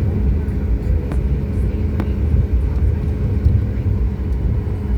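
Steady low rumble of a Boeing 737 MAX 8's CFM LEAP-1B jet engines, with a couple of steady tones running through it.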